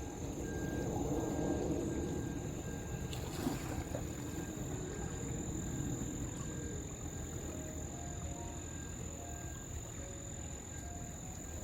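Crickets trilling steadily as one continuous high tone, over a low rumbling background noise that is a little stronger in the first few seconds.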